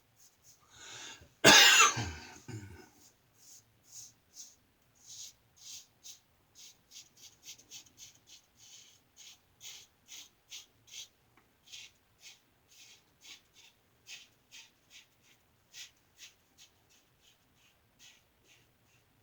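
Short scraping strokes of a 3D-printed injector-style razor with a Schick injector blade cutting through lathered stubble, about two strokes a second with brief pauses. A loud cough about one and a half seconds in.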